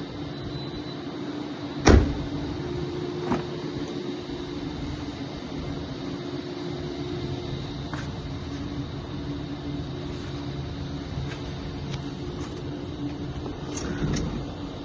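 Car idling with a steady hum. A heavy thump comes about two seconds in and a lighter knock a second later, with a few small clicks and a louder knock near the end.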